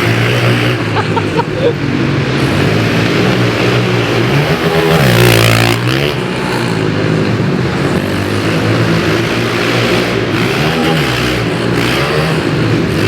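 Pit bike engines revving up and down as the bikes lap the track, with one bike passing close by about five seconds in.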